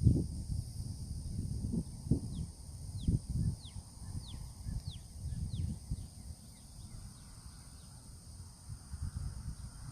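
Wind buffeting the microphone in low gusts, over a steady high drone of insects. A bird calls a run of about a dozen short notes that slide downward, starting a couple of seconds in.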